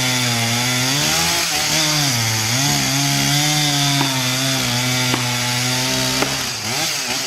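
Chainsaw cutting through a big tree trunk in the felling cut, its engine pitch sagging and recovering as the chain loads up in the wood, with a few sharp ticks in the second half.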